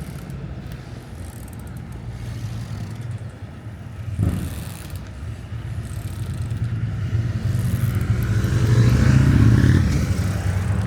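Street traffic: a motor vehicle's engine running close by, growing louder from about seven seconds in as it draws near, with a single sharp knock about four seconds in.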